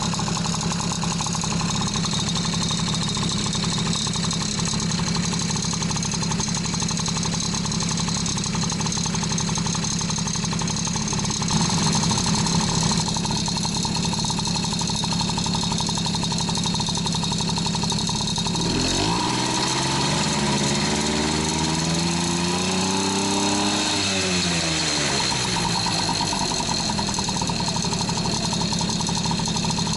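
Honda Motocompo NCZ50's 49 cc two-stroke single-cylinder engine running steadily at low speed, then revved up over several seconds about two-thirds of the way through and eased back down.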